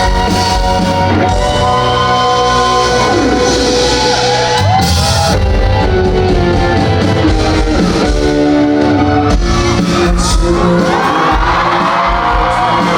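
A pop-rock band playing loud and live in a concert hall, with fans shouting and screaming over the music. About five seconds in, one song gives way to the next.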